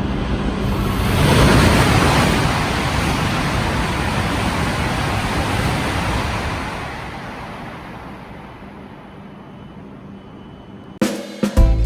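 A coupled E5/E6-series Shinkansen passing through the station at speed without stopping. A loud rush of air and rolling noise peaks about a second and a half in, then fades steadily away as the train recedes. Music starts abruptly near the end.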